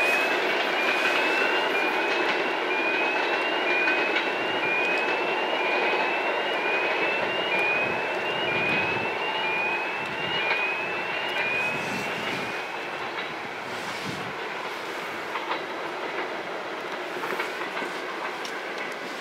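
Passenger coaches of a departing train running away on the rails, a steady rumble that fades. A high rising squeal repeats about once a second and dies away with it about two-thirds of the way through. Near the end there are a few sharp clicks.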